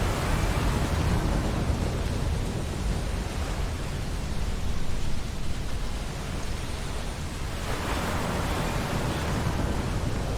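Ocean surf washing onto a beach with a steady low rumble, swelling near the start and again about eight seconds in as waves break.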